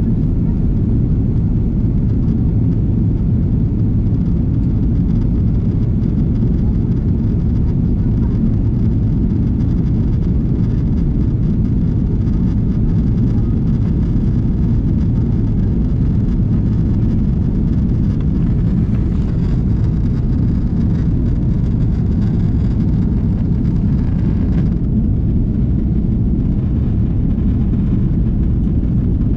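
Airbus A330-300 cabin noise: a steady, loud low rumble of the jet engines and airflow heard from a window seat inside the passenger cabin.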